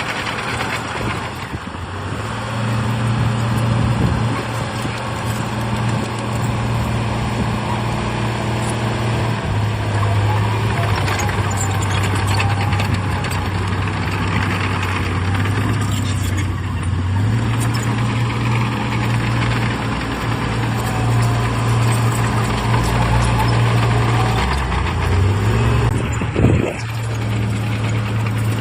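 Heavy diesel engine of earthmoving machinery running under steady load, its pitch stepping up and down a few times, with a short sharp burst near the end.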